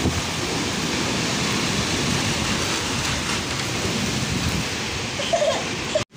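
Heavy rain pouring in a strong windstorm, a steady even rush of falling water. It cuts off abruptly near the end.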